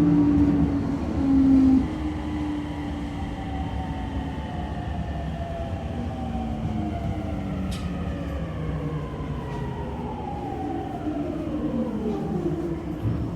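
Toei 10-300 series train's Mitsubishi IGBT-VVVF inverter whining under braking. A steady tone in the first two seconds gives way to several tones gliding down in pitch as the train slows, over the rumble of the running gear.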